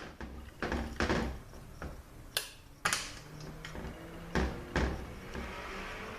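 Hand tools and metal parts clicking and knocking on a workbench while the valve body's bolts are fitted: about eight separate sharp clicks and clunks, then a soft rasp near the end.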